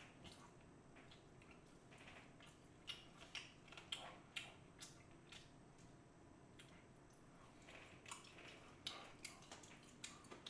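Quiet close-miked chewing and lip-smacking of a person eating spicy food, with scattered soft wet clicks, a cluster of them about three to five seconds in and more near the end.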